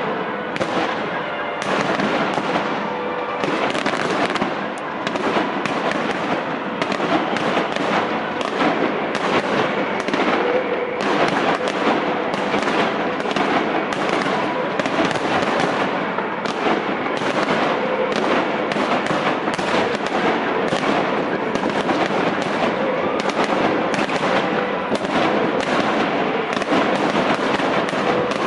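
Fireworks display: a dense, unbroken barrage of shells bursting and crackling, several bangs a second.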